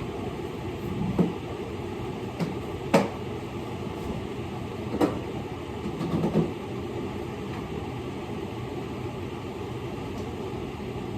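Kitchen utensils knocking and clattering a handful of times during food preparation, over a steady mechanical hum.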